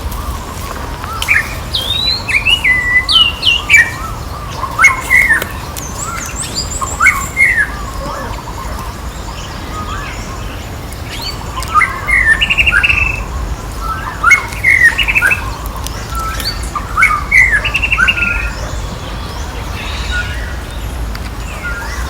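Short, high chirping and squeaky animal calls in clusters of several in quick succession, some sweeping up or down in pitch, over steady outdoor background noise.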